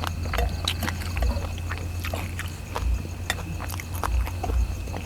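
People eating seafood papaya salad close to the microphone: wet chewing and lip-smacking, with many short irregular clicks and soft low thumps.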